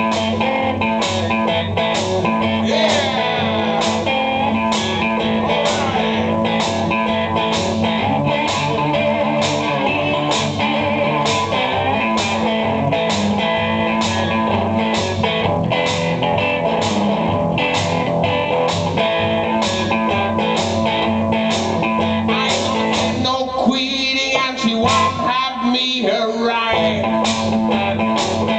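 Blues music played live: guitar over a steady beat of about two strokes a second, with a short break in the texture near the end.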